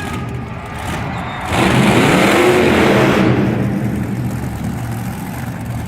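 Monster truck engine revving hard: a loud surge about a second and a half in that rises in pitch and eases off a couple of seconds later, over steady engine running.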